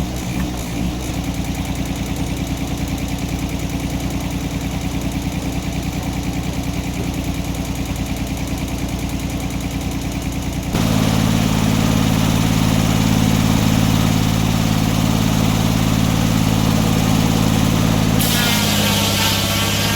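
An engine running steadily, then stepping up abruptly to a higher, louder speed about eleven seconds in. A hissing noise joins near the end.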